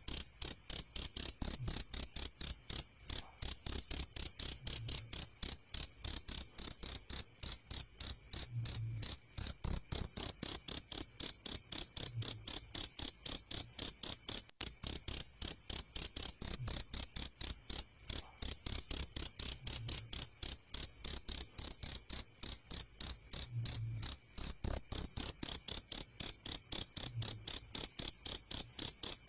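Cricket chirping steadily: an unbroken, even stream of high-pitched chirps, about three to four a second.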